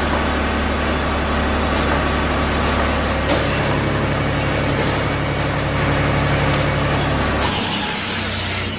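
Tajfun RCA-400 Joy firewood processor running, a steady mechanical drone with a strong low hum. About seven and a half seconds in, the low hum drops away and a brighter hiss takes over as the machine changes operation.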